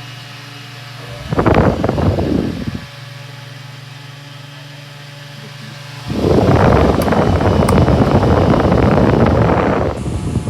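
Holmes One Touch Blizzard 9-inch table fan running with a steady motor hum. Its airflow buffets the microphone in loud gusts, once briefly about a second in and again for about four seconds from six seconds in.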